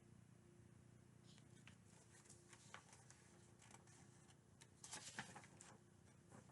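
Near silence with faint rustles and soft clicks, and a slightly louder rustle about five seconds in.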